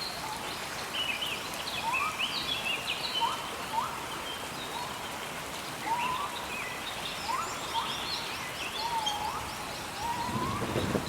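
Rainforest ambience: a steady hiss of rain under many bird calls, short rising whistles repeated about once a second with higher chirps and trills above them.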